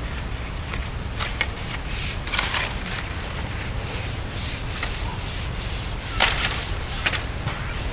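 Wood being scraped by hand, in several irregular scratchy strokes with a longer one near the middle and the strongest about six seconds in, over a steady low rumble.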